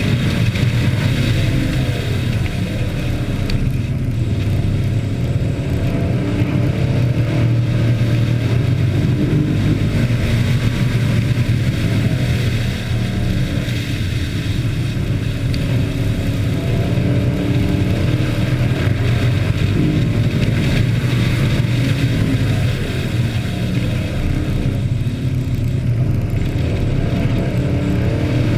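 Hobby-class race trucks running laps together on an oval track, their engines revving up and down in pitch as they race.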